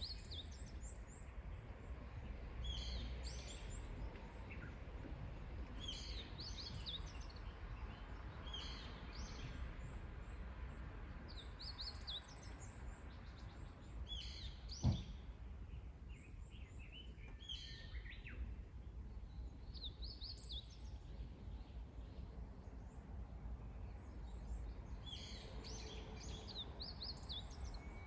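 Wild songbirds singing short, high chirping phrases every few seconds over a steady low background rumble. A single sharp knock sounds about fifteen seconds in.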